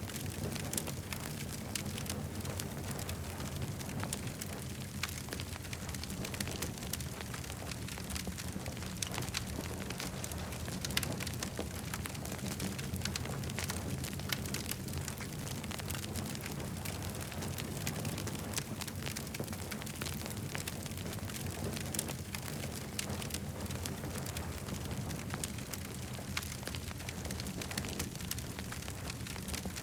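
Campfire crackling, with frequent small irregular pops and snaps over a steady low rumble.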